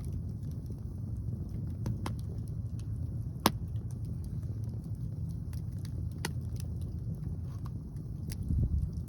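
Wood fire crackling, with a few sharp pops, the loudest about three and a half seconds in, over a steady rumble of wind on the microphone.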